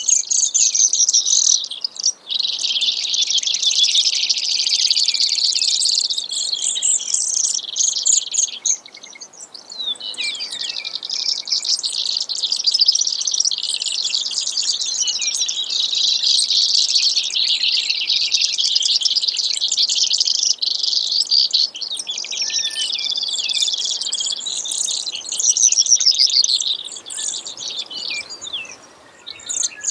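Brewer's sparrow singing its long, rambling song of rapid trills that shift in pitch, in phrases lasting several seconds each, with short breaks about two seconds in, around nine seconds in, and near the end.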